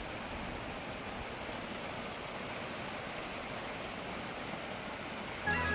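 Steady rush of fast-flowing water from a mountain stream and waterfalls. Music comes in near the end.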